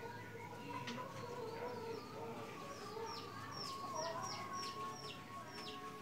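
Birds peeping: short, high-pitched chirps that each fall in pitch, a few scattered early and then a quick run of about three a second from about three seconds in.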